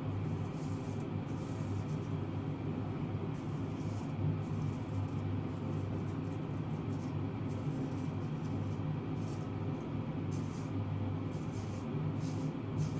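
Vintage Aiku straight razor scraping through stubble in short, irregular strokes, over a steady low hum.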